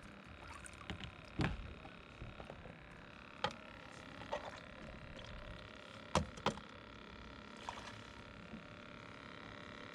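Scattered knocks and clicks of handling aboard a kayak with a just-landed fish, the sharpest about a second and a half in, at three and a half seconds and twice around six seconds, over a faint steady background.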